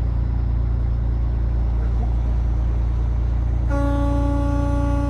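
Freightliner Columbia truck's diesel engine running with a steady low drone, heard from the cab. Near the end a vehicle horn sounds once, holding one steady pitch for about a second and a half.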